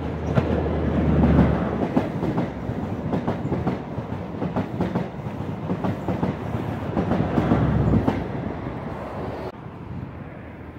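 An InterCity 125 High Speed Train passes underneath. The leading Class 43 diesel power car's engine is loudest at the start, then the coaches' wheels clickety-clack over the rail joints. A second swell of engine rumble comes near the end as the rear power car passes. The sound then drops abruptly to a fainter, distant train.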